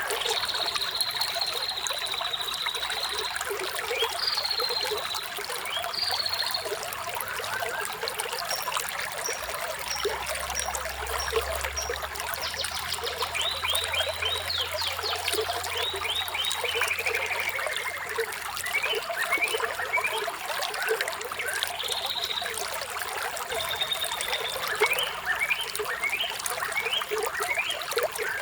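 Running water trickling steadily, with birds chirping and whistling over it: held whistles, many quick rising chirps and a fast run of notes in the middle.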